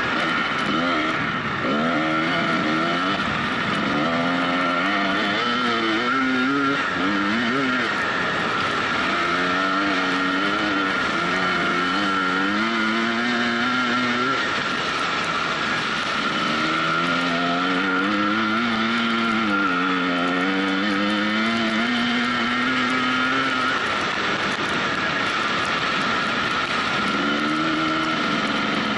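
Off-road motorcycle engine running hard, its pitch rising and falling again and again as the throttle opens and closes.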